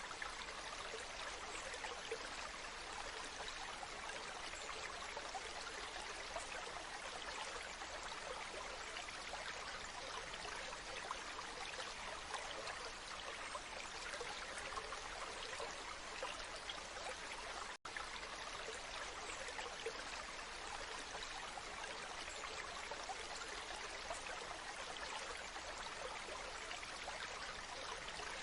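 Waterfall: a steady rush of falling water, cut off for an instant about two-thirds of the way through.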